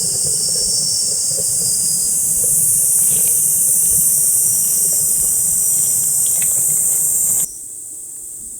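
A loud, steady high-pitched chorus of summer insects over a low rumble, with a few faint clicks. It cuts off abruptly near the end, leaving a quieter background.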